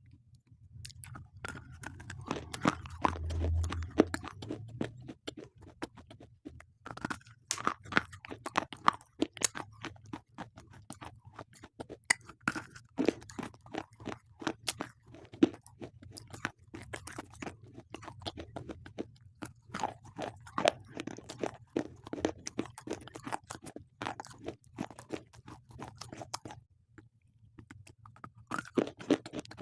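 Slate pencils being bitten and chewed close to the microphone: a dense run of sharp, brittle crunches between the teeth, with a short pause near the end before the crunching resumes.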